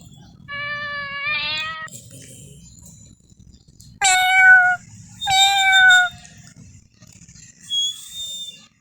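Domestic cat meowing three times: a longer meow about half a second in that wavers at its end, then two louder, shorter meows about four and five seconds in.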